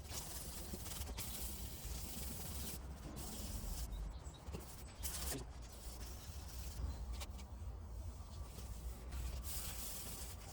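Hand sanding with a sanding block and 400-grit paper over primer on a car body panel: scratchy rubbing strokes in uneven runs with short breaks, blocking down the guide coat to shape the repair.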